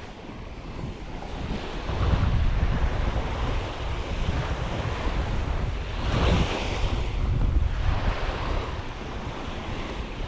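Ocean surf breaking and washing up on a sand beach, with wind buffeting the microphone as a low rumble. The waves swell in waves of hiss, the loudest one about six seconds in.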